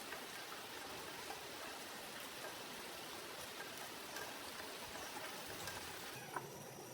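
A steady, even hiss with scattered faint ticks, thinning out near the end.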